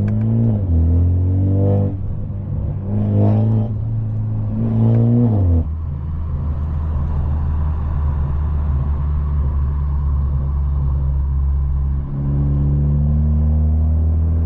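Straight-piped, catless exhaust of a BMW 530 pulling through the gears, its note climbing and then dropping at each upshift several times, then settling into a steady low drone at cruise.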